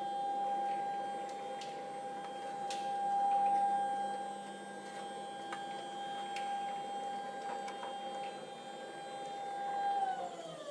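Stepper motor driving an ironworker's rack-and-pinion CNC backgauge to its calibration position: a steady high whine while the gauge travels, with a few faint clicks. Near the end the pitch falls away as the motor slows toward a stop.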